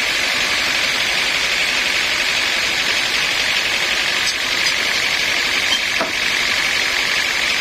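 Sawmill machinery running with a steady, unbroken mechanical noise, with a faint tick about six seconds in.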